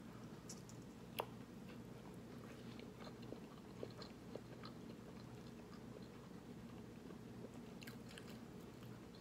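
Faint chewing of a bite of KFC crispy chicken sandwich, with scattered small crunches and clicks, a sharper one about a second in.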